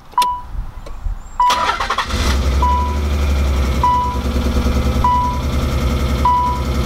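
Nissan 300ZX's V6 engine cranked by the starter about a second and a half in. It catches within a moment and then runs rough and uneven: a cylinder not firing, which the owner traces to a dead coil-pack circuit. The car's warning chime beeps about once a second throughout.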